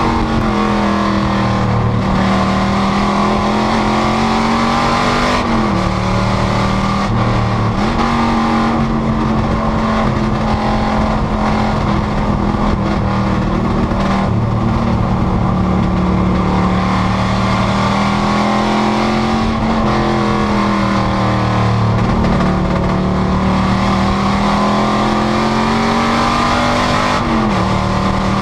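Panoz GTS race car's engine running hard under racing load. Its pitch climbs and sags slowly and breaks sharply about five times, at roughly 2, 5, 8, 20 and 27 seconds in, as the car shifts and lifts for corners.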